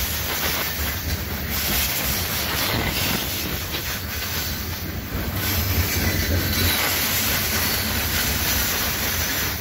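Loaded coal hopper cars of a long freight train rolling past close by: a steady rumble of steel wheels on the rails.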